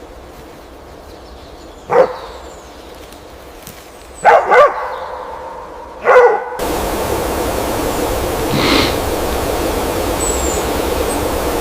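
Four short, sharp animal calls, the middle two close together. About two-thirds of the way in, a steady rushing noise cuts in abruptly, with a few faint high chirps near the end.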